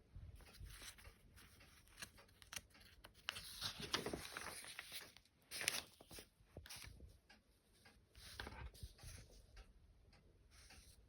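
Paper rustling as the pages of old magazines are turned and handled: soft, irregular swishes, the loudest about four and about five and a half seconds in.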